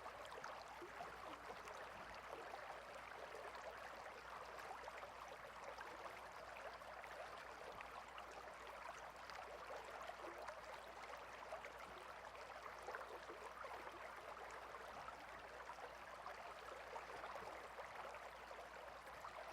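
A small stream flowing and babbling steadily, an even rush of water with fine splashing detail.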